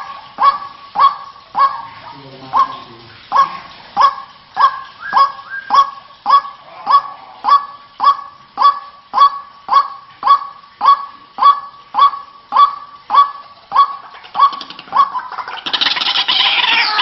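White-breasted waterhen calling: a steady run of short, honking notes, about two a second. Near the end a louder, jumbled chorus of overlapping calls breaks in.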